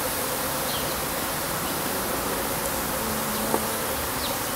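Honeybees buzzing in a steady hum around an opened top-bar hive, with one brief click about three and a half seconds in.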